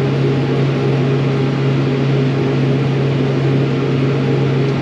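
Engine and cab drone of a 2004 RoGator 1064 self-propelled sprayer, heard from inside the cab as it drives across the field: a steady low hum under an even mechanical hiss.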